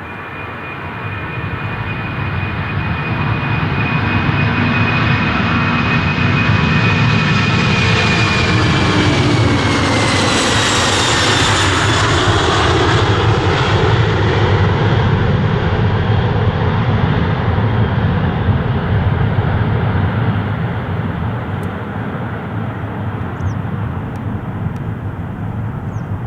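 Jet airliner flying past close by. Its engines' high whine drops in pitch as it goes by about ten seconds in, over a heavy rumble that swells and then slowly fades.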